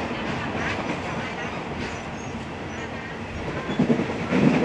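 Moving passenger train heard from inside the carriage: a steady running rumble of the coach on the rails, with a louder stretch near the end.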